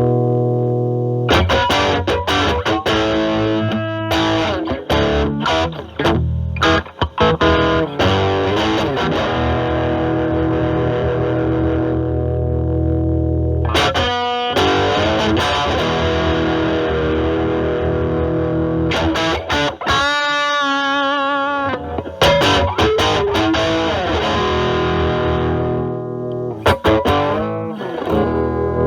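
Electric guitar, a single-coil Stratocaster through a Rawhide overdrive/distortion pedal into a Marshall Valvestate amp's drive channel, playing distorted chords and lead runs. About twenty seconds in, one held note is bent and shaken with a wide vibrato.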